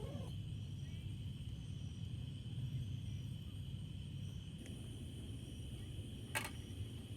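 Outdoor ambience: a steady high insect drone over a low rumble, with one sharp pop about six seconds in.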